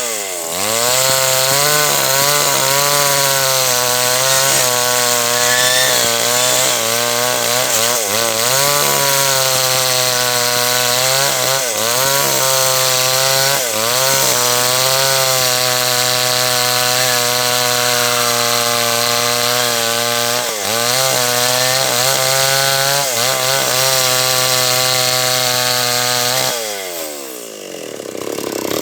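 H&L Pro 5800 two-stroke chainsaw running at high revs while cutting through a large teak log. Its pitch wavers and dips briefly several times as the chain bogs in the wood, and about two seconds before the end the revs fall away.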